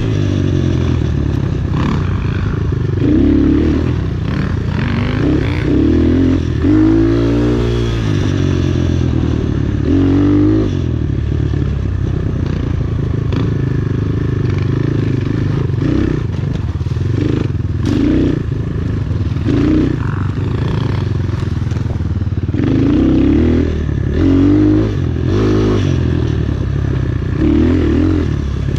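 Enduro motorcycle engine being ridden, revving up and easing off over and over. Scattered knocks come in between.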